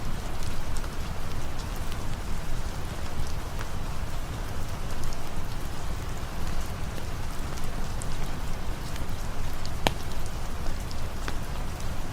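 Steady rain falling, with scattered sharp ticks and pops over it, one louder about ten seconds in.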